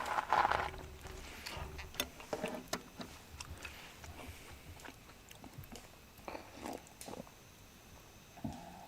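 A person chewing a mouthful of fire-grilled steak: soft, irregular mouth noises with scattered small clicks.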